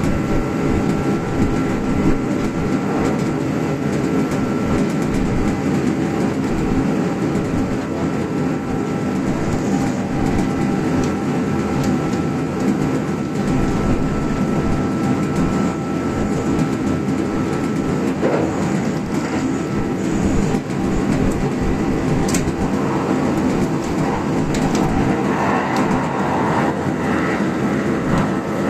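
Kintetsu express electric train running along the line, heard inside the front car: a steady rumble of wheels on rail with a thin steady whine and a few brief clicks.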